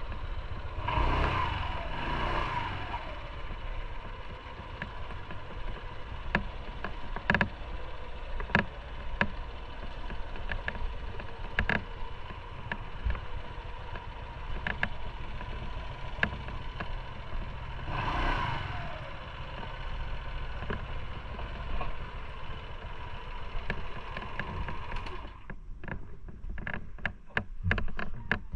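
Motorcycle on the move: steady engine and road rumble with many short knocks and clicks. Louder passes with a falling pitch come about a second in and again about two-thirds through, and near the end the rumble thins while the clicks come faster.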